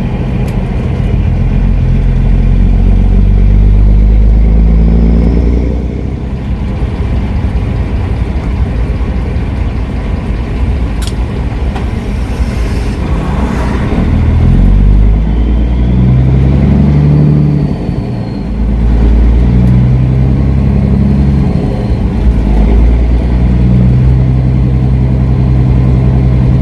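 Diesel semi-truck engine running under changing load, its revs stepping up and down several times: it climbs, drops about 6 seconds in, rises again, and settles near the end.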